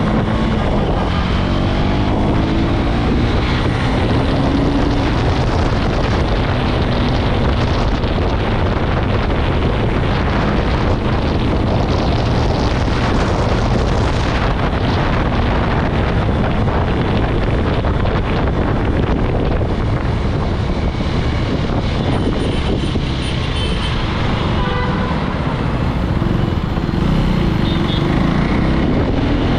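KTM Duke 390's single-cylinder engine running on the road under heavy wind rush on the microphone, its pitch rising as it accelerates in the first few seconds and again near the end.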